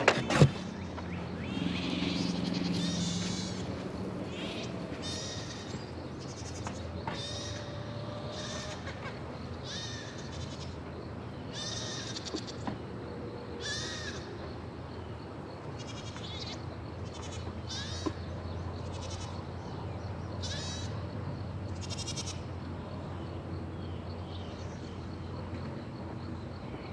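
Goats bleating over and over, short wavering calls every second or two, over a steady low hum.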